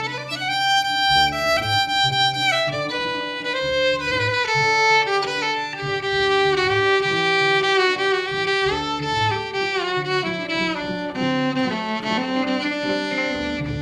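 Instrumental break: a violin-like bowed melody played with vibrato over a walking double bass line and guitar.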